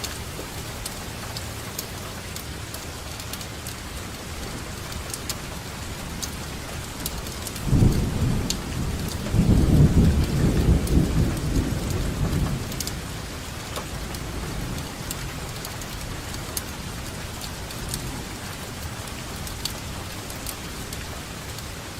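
Steady rainfall with individual drops pattering, and a roll of thunder: it cracks in sharply about a third of the way through, rumbles loudest for a few seconds, then fades back under the rain.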